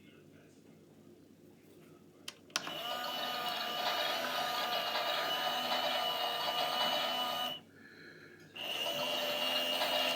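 Miele Softtronic washing machine's drum motor tumbling the wash: a click, then a steady motor whine for about five seconds, a stop of about a second, and the motor starting again.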